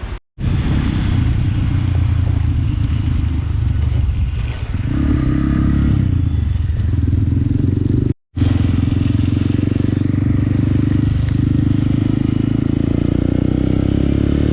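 Honda Grom (MSX125) 125cc single-cylinder four-stroke engine running under throttle while riding, its pitch stepping up and down as the speed changes. The sound drops out completely twice, briefly, about a quarter second in and about eight seconds in.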